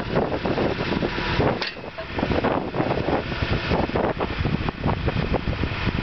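Skid steer engine running, with irregular wind buffeting on the microphone; the level dips briefly a little under two seconds in.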